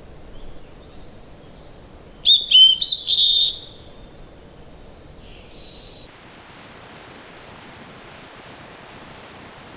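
Songbirds chirping in short curved calls, loudest a little past two seconds in, over a low background hiss. About six seconds in, the sound cuts abruptly to a steady, even hiss of rain.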